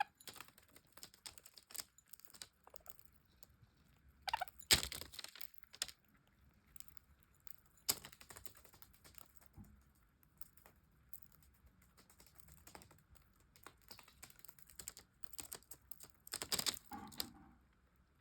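Budgerigars eating seeds: irregular small clicks and cracks of husks being cracked, with louder clusters about four and a half seconds in and near the end.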